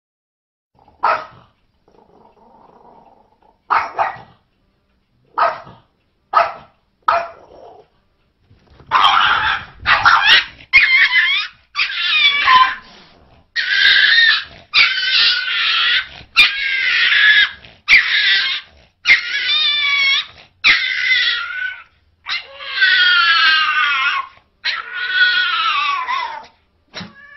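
A dog gives a few short, sharp barks, then breaks into a long run of loud, drawn-out crying calls, each about a second long and wavering in pitch.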